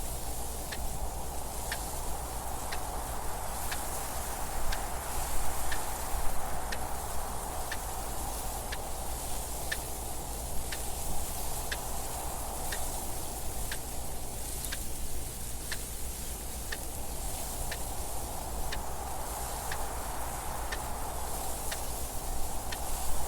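Clock ticking at a steady, even pace over a rushing wind that swells and eases, with stronger gusts now and then.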